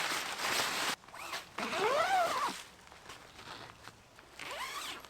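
Zipper on a tent's mesh door being pulled in several strokes: a quick rasp that stops abruptly about a second in, then pulls that rise and fall in pitch.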